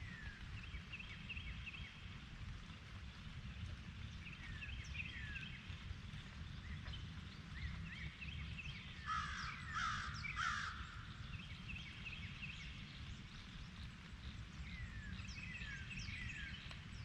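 Wild birds calling: short downward-sliding chirps repeating, with a louder, harsher run of calls about nine to ten and a half seconds in, over a low steady background rumble.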